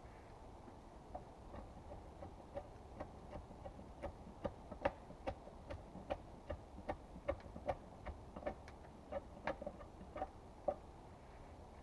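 A series of short, light knocks or taps, about two to three a second, each with a slight ring. They start about a second in, are loudest in the middle, and stop near the end.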